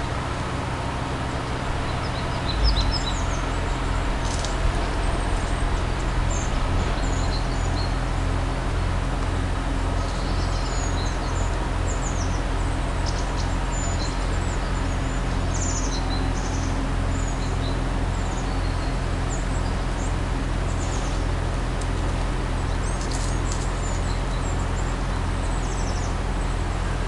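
Small birds chirping in short, scattered high calls over a steady low rumble that pulses about twice a second.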